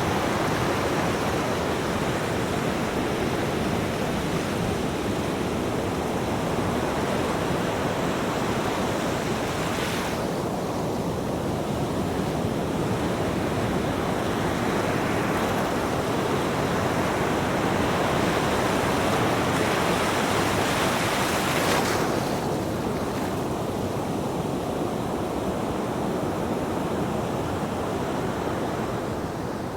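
Ocean surf: a continuous rush of breaking and washing waves. The hiss in the highest range drops away suddenly twice, about a third and about two-thirds of the way through.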